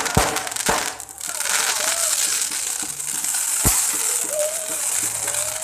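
Firecrackers going off: two sharp bangs in the first second and another about three and a half seconds in, over a steady crackling hiss of burning fireworks.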